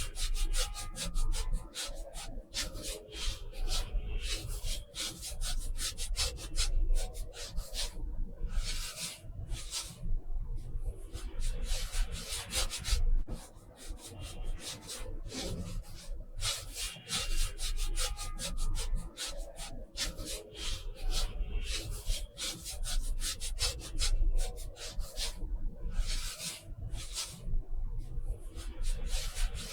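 Many quick, scratchy strokes rubbing across paper, with short pauses between runs of strokes.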